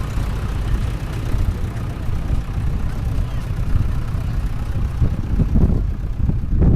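Low, steady rumble of engines running, with no single event standing out.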